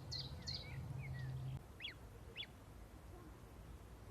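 Birds calling: a rapid series of short, high chirps, about three a second, stops about a second in, followed by two sharp falling calls. A low steady hum underneath cuts off about halfway through.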